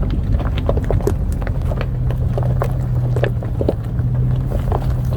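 Off-road vehicle crawling over a rocky trail: a steady low engine hum with frequent irregular knocks and rattles as it jolts over the rocks.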